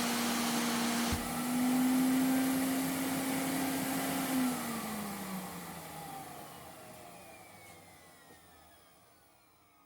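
Vacuum cleaner running with a steady motor hum, then switched off about four seconds in, its motor winding down in a long falling whine that fades almost to nothing.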